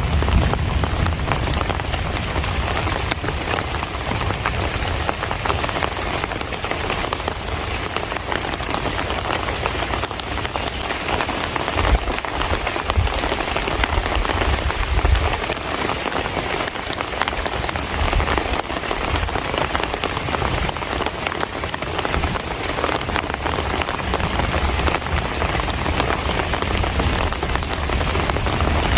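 Rainy-season downpour falling steadily, a dense patter of drops on surfaces, with a low rumble now and then.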